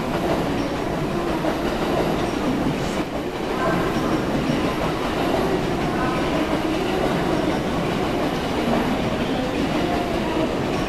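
JNR 117 series electric train running in on its approach to the platform, a steady train noise of wheels on rail.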